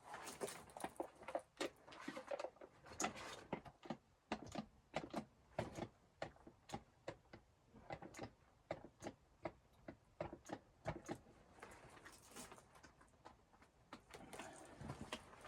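Irregular light clicks and knocks in a small enclosed space, two or three a second, with short pauses between.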